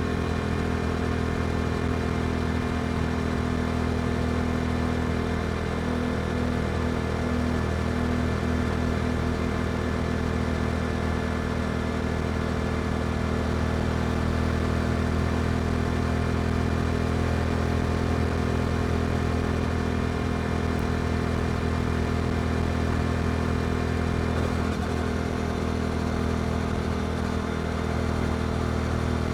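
Yamaha R7's parallel-twin engine breathing through an aftermarket Akrapovic exhaust, cruising at a steady speed with a constant, even engine note that shifts slightly about three quarters of the way through.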